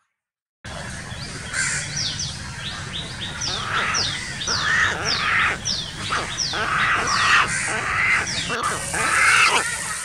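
Birds calling over and over in harsh, falling notes, about two calls a second, starting abruptly about half a second in.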